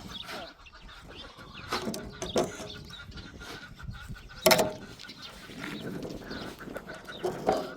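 Domestic fowl calling in a farmyard, a few short scattered calls, the loudest about four and a half seconds in.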